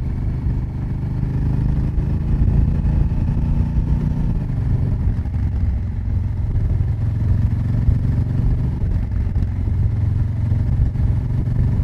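Honda Africa Twin CRF1000L's 270-degree parallel-twin engine running through its exhaust while the bike is ridden along a road, heard from close to the exhaust pipe. The engine note drops once about four seconds in, then holds steady.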